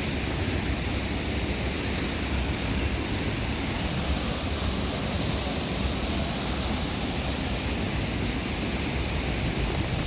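Steady roar of a nearby waterfall, an even rush of falling water with no break.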